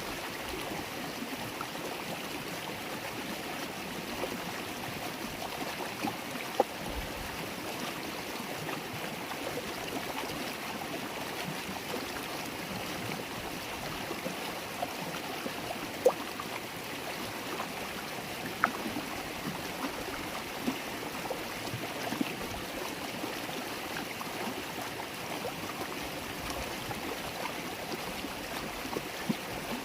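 A shallow river or stream burbling steadily over stones, with small sharp plinks and splashes now and then on top of the steady rush.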